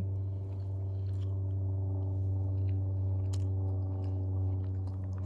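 Chewing and biting on juicy rotisserie chicken close to the microphone, with scattered small clicks, over a steady low hum with a stack of overtones.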